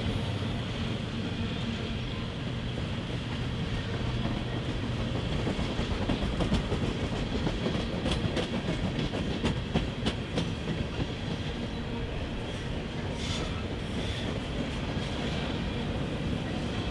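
Freight train rolling past, its cars clattering over the rails in a steady clickety-clack, with sharp wheel clicks over rail joints now and then.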